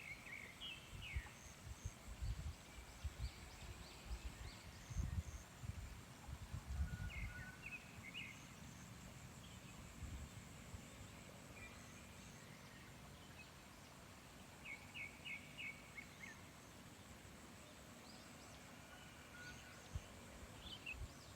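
Small birds chirping and twittering in scattered short calls and quick trills across a rice field, with a faint steady high whine behind them. Irregular low gusts of wind buffet the microphone, most in the first half.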